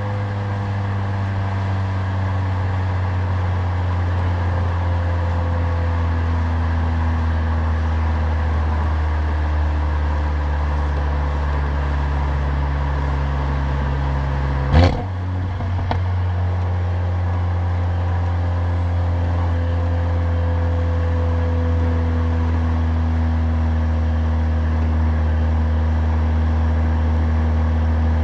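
Stage 2 tuned Mercedes-AMG CLA45's turbocharged four-cylinder engine and loud aftermarket exhaust droning at steady cruise, with engine speed drifting slowly. About halfway through there is a quick rev and a single sharp crack, then a short dip before the drone resumes.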